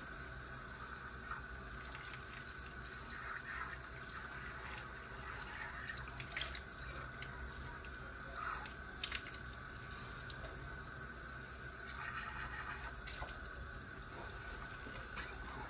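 Water running steadily from a tap into a sink, with a few light knocks and clinks.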